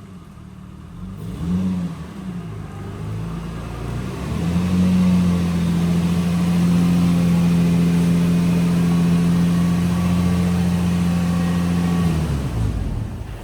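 Infiniti G35's 3.5-litre V6 engine: a short rev rise and fall about a second and a half in, then a climb to a high, steady engine note held for about eight seconds before it drops away near the end.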